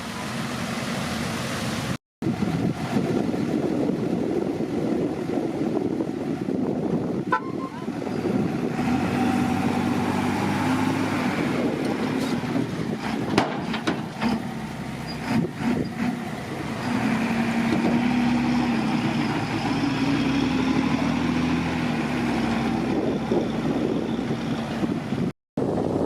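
Komatsu D50PX bulldozer's diesel engine working, its drone rising and falling with the throttle and getting louder in the second half, with a few sharp knocks in the middle.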